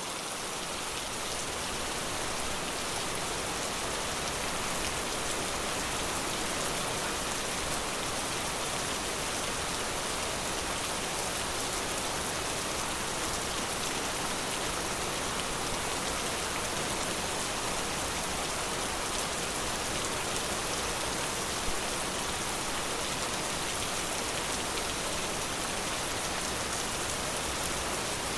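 Steady rain falling, a dense even hiss of drops with fine pattering on surfaces close by.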